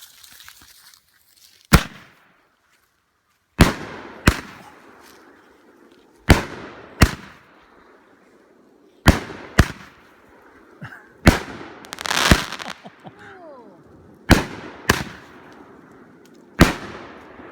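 A multi-shot consumer fireworks cake firing: sharp bangs every two to three seconds, mostly in pairs about half a second apart, with a longer crackling burst about twelve seconds in.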